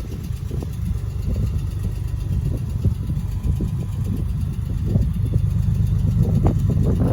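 Toyota 4Runner engine idling steadily, a low even rumble.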